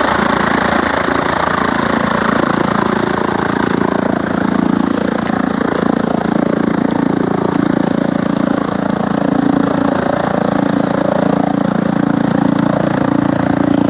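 Tractor engine running at a steady speed, driving a chaff cutter, with the cutter's machinery running along with it as one continuous loud mechanical noise.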